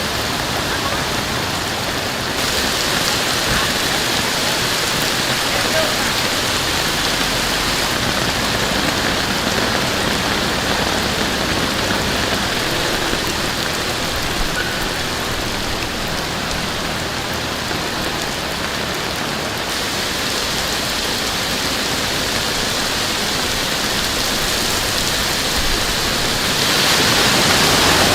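Very heavy rain pouring down in a steady, dense hiss, swelling a little louder near the end.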